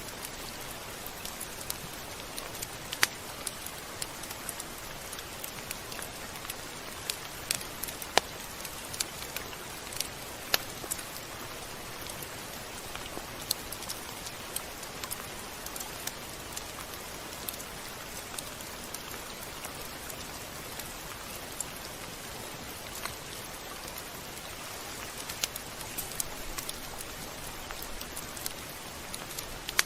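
Rain falling steadily: an even hiss with scattered sharp drop hits, a few of them louder.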